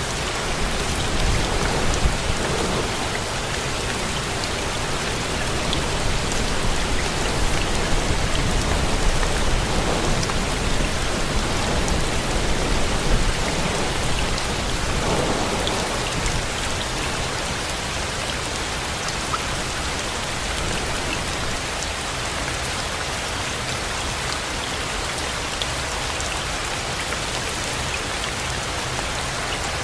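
Steady rain falling, a dense even patter, with a low rumble of thunder rolling through the first half that fades out about halfway through.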